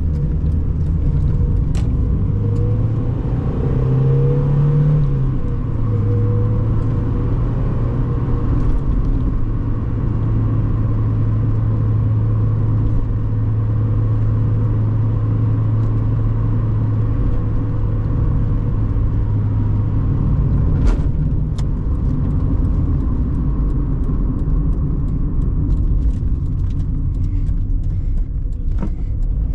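1997 Mazda MX-5 Miata's 1.8-litre four-cylinder engine running on the move, with road noise. The engine note rises a few seconds in, holds steady for a long stretch, then changes about twenty seconds in.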